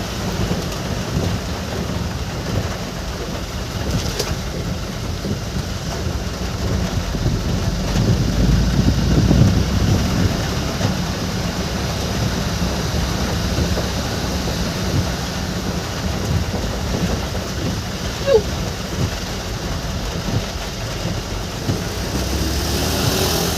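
Rain falling on a moving vehicle, with a steady engine and road rumble underneath that swells a little about a third of the way in.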